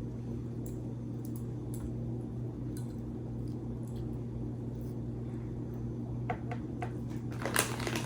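Hands laying sliced meat onto slider buns: scattered light clicks and soft rustles over a steady low hum, growing busier near the end.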